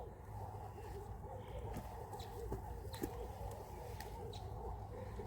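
Soft, low bird calls carrying on throughout, with a few faint sharp clicks.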